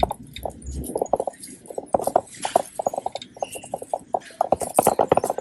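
A boxer dog's claws clicking and tapping on a hard store floor as it walks and shifts about, in a quick irregular patter.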